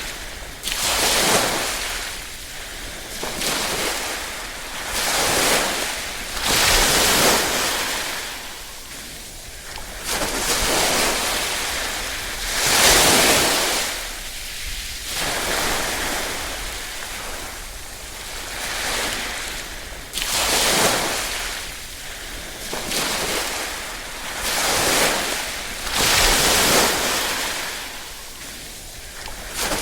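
Small waves lapping on a shore, a rushing wash that swells and fades every two to three seconds.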